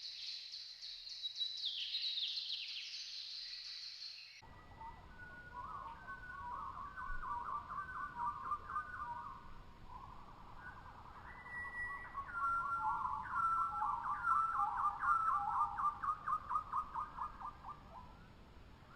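Birdsong in two spliced recordings: high-pitched chirping for about four seconds, then an abrupt switch to lower, rapidly repeated whistled notes in runs over a faint steady hiss.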